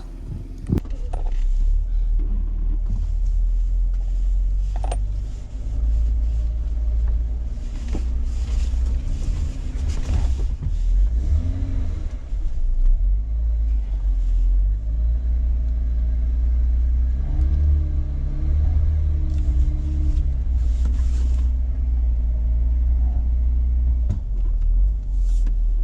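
2012 Jeep Wrangler's 3.6-litre V6 running under load with a deep rumble, revving up and down several times as the Jeep struggles for traction on a muddy slope and slips sideways.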